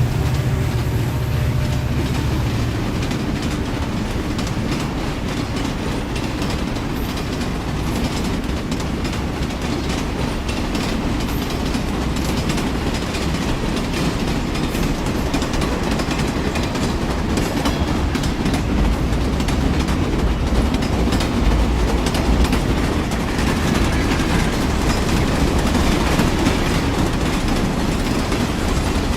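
A train running along its track: a steady rumble with a dense clatter of wheels over the rails.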